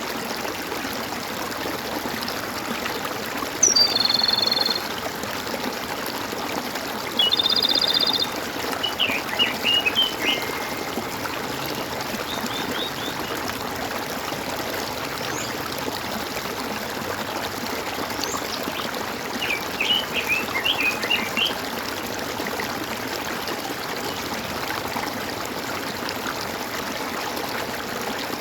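A stream of running, gurgling water, with birds calling over it: two short whistled calls in the first third, then bursts of quick sweeping notes about a third of the way in and again past halfway.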